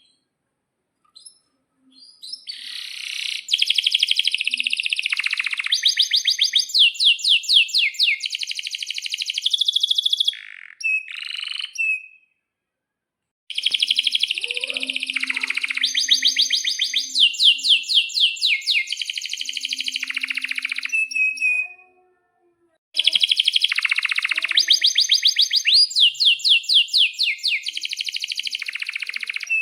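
Male domestic canary singing long phrases of fast, high trills and rolling runs of repeated notes. Three long bursts of song, with brief pauses about 12 and 22 seconds in.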